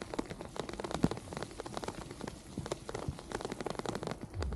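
Rain falling, with many irregular sharp ticks of drops striking close to the microphone; a low rumble comes in near the end.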